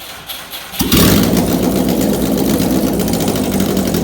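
Subaru WRX flat-four engine firing up about a second in and then running loud and steady.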